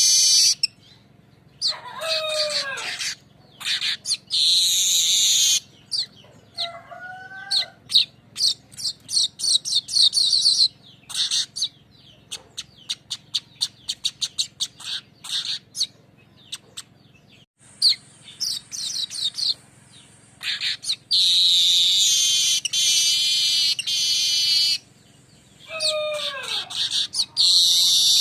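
Weaver (manyar) singing its rolling lure song: rapid chattering trains of ticking notes and long harsh, wheezy buzzing phrases. A few clear falling whistles are mixed in, about two seconds in and again near the end.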